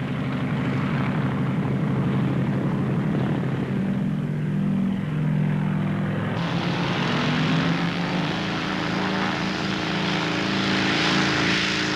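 Scottish Aviation Twin Pioneer's two propeller-driven Alvis Leonides radial engines running hard for a short take-off. About six seconds in the sound abruptly turns hissier and the engine note climbs a little.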